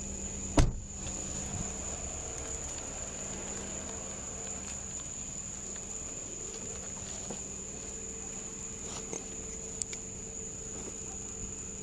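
Steady high-pitched drone of insects, over a low steady hum, with one sharp knock about half a second in.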